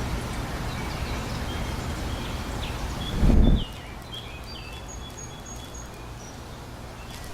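Outdoor ambience of small birds chirping in short, high notes over a steady hiss. A brief low rumble comes about three seconds in, after which the background is quieter.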